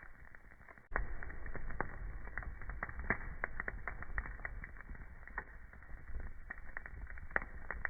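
Wood fire burning in a fireplace, with irregular sharp crackles and pops of burning wood over a low rumble of flame. The fire gets louder suddenly about a second in.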